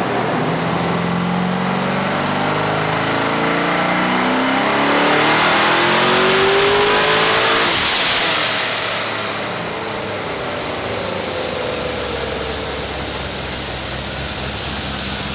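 Twin-turbo C6 Corvette Z06's 7.0-litre LS7 V8 making a full-throttle pull on a chassis dyno: the engine note climbs steadily for about eight seconds, then the throttle closes and a high whine falls slowly as it winds down. The pull peaks around 22 psi of boost, short of the 26 commanded, which the tuner puts down to the wastegate spring.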